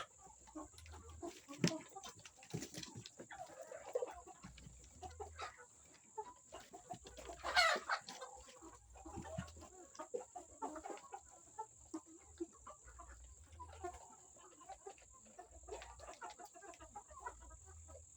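A flock of 20-week-old Sasso and Plymouth Rock chickens clucking and calling in short, scattered calls, with one louder call about seven and a half seconds in.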